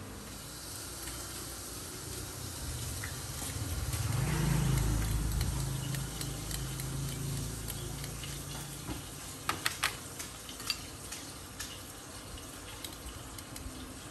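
Food sizzling in a hot wok as it is stir-fried, a steady hiss with a low rumble swelling about four seconds in. A few sharp clinks about ten seconds in.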